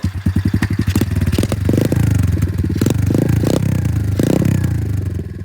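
Small semi-automatic dirt bike engine freshly started, running with several quick throttle blips, then settling to a lower, steady idle near the end.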